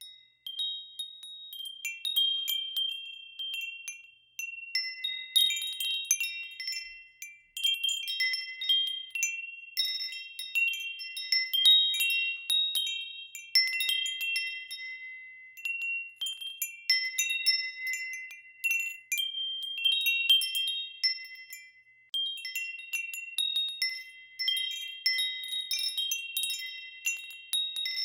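Metal wind chimes ringing in the wind: clusters of high, clear tones struck at irregular intervals, each ringing on and fading, with no steady wind noise beneath.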